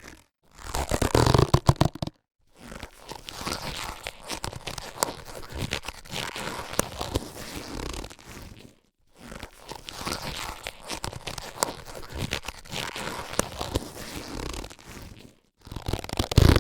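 Latex surgical gloves being handled: rubbery stretching and rubbing with many small squeaks and crackles. There are two long stretches of softer rubbing separated by short silences, with louder bursts about a second in and again near the end.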